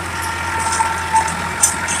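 Massey Ferguson 5245 tractor's three-cylinder diesel engine running steadily, with a few faint high clicks over it.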